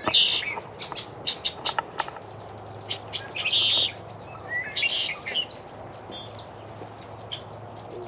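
Several wild birds calling: a run of short, sharp chips mixed with a few half-second buzzy calls.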